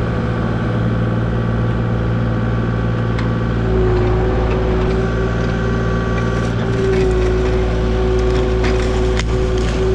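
Kubota KX040 mini excavator's diesel engine running steadily, with a hydraulic whine coming in about four seconds in. Scattered sharp cracks through the second half.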